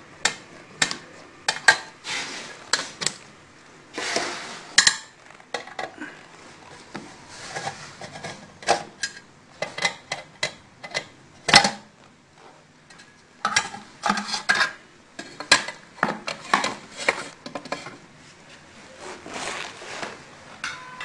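Irregular clicks, taps and metallic clinks of tools, screws and parts being handled while the fan and circuit board are taken out of a chocolate fountain's base, with one sharper knock about halfway through.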